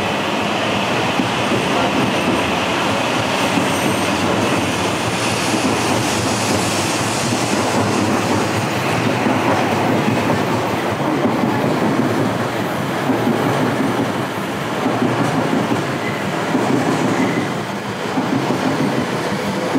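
Coupled E6 and E5 series Shinkansen train pulling out slowly and passing close by: a steady rush of running noise, with the wheels clattering over rail joints from about twelve seconds in.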